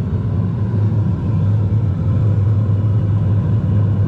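North Star steam pressure washer running with its burner firing and its thermostat at maximum, heating water on open flow: a steady low rumble.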